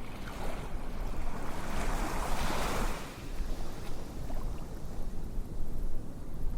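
A rushing, surf-like noise over a low rumble. It swells to a peak about two to three seconds in and then recedes.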